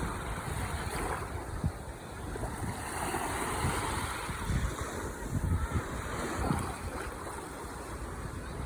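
Ocean waves washing on the shore, one wave swelling and receding about three to four seconds in, with irregular low rumbles of wind buffeting the microphone.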